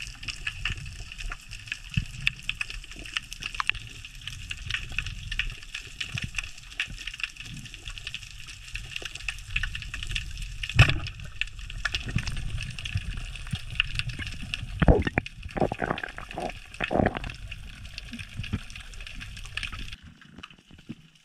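Water sloshing and gurgling around the camera, over a dense, steady crackle of small clicks. A few louder knocks stand out about halfway and again around three quarters of the way in, and the sound turns quieter shortly before the end.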